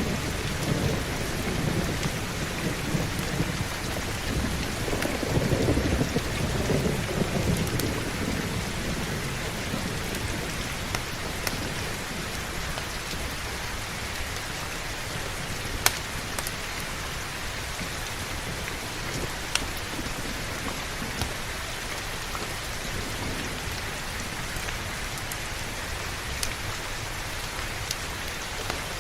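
Heavy rain falling steadily, with a low rolling thunder rumble that swells over the first several seconds and then dies away. A few sharp single clicks stand out over the rain later on.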